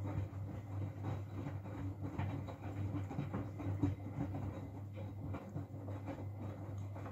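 Miele W433S front-loading washing machine in its main wash at 60 °C: the drum turning and wet laundry tumbling, over a steady low hum.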